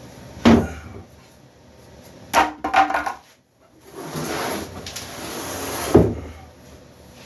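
A heavy wooden cabinet, about 150 pounds, being flipped over. Several wooden knocks and bumps, then about two seconds of scraping as it slides and tips, ending in a loud thump near the end as it comes down.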